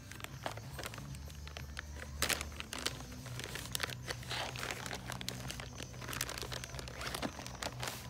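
Crinkling, crackling handling noise of wires and Tesa cloth wiring tape being worked by hand, with scattered sharp clicks and tearing, over a steady low hum.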